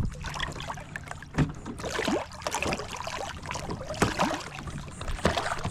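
Water splashing and sloshing against a kayak, with irregular small knocks and clicks from handling at the side of the boat.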